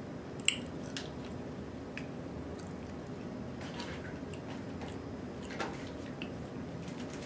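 Quiet wet chewing and mouth sounds of a person eating snow crab meat, with a few small clicks, the sharpest about half a second in, over a low steady hum.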